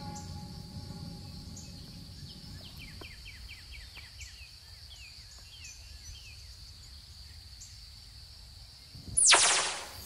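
Faint outdoor ambience with a small bird chirping a quick run of short, falling notes for a few seconds. Near the end a loud sweep drops quickly in pitch.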